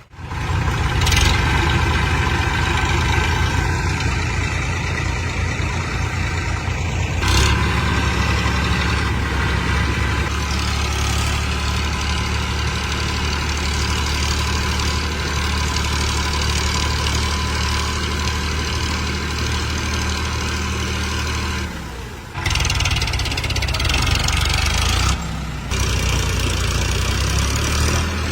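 Tractor engines running with a steady low drone, in several clips joined by sudden cuts.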